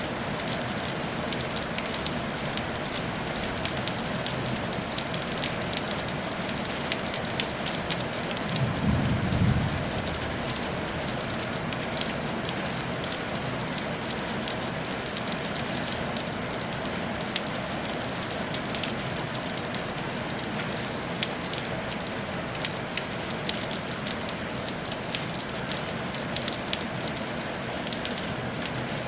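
Steady rain falling on a tile roof, a dense patter of individual drops over a constant hiss. About nine seconds in, a brief low rumble rises and fades over a second or so.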